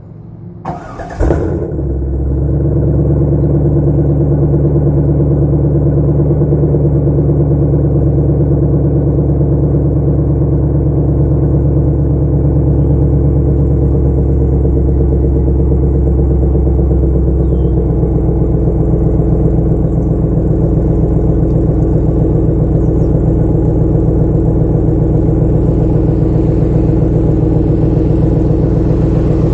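Cold start of a 1999 Chevrolet Camaro Z28's 5.7-litre LS1 V8 with a Spintech muffler: a brief crank about a second in, a loud flare as it catches, then a steady idle on the cold engine.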